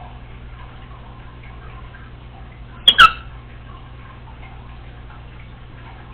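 Congo African grey parrot giving one short, sharp double click-whistle about halfway through, loud against a faint steady hum.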